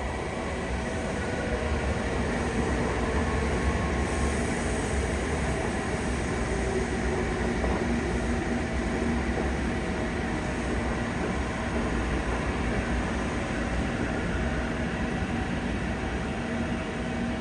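Train running steadily: a continuous rumble with faint, steady whining tones.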